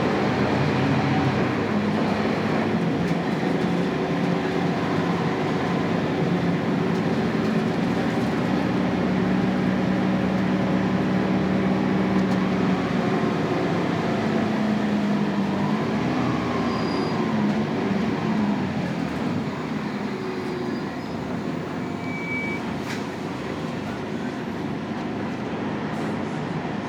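Scania K280UB bus's 9-litre five-cylinder turbo diesel running under way through its ZF EcoLife automatic, a steady engine note that shifts in pitch around the middle, then goes quieter about two-thirds of the way through as the bus eases off.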